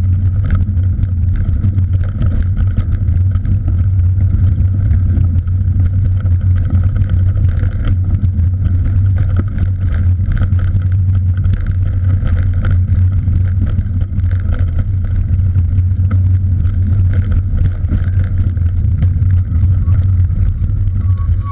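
Steady wind and road rumble from riding a cross bike, a loud low roar on the microphone with a scatter of small ticks from the road surface.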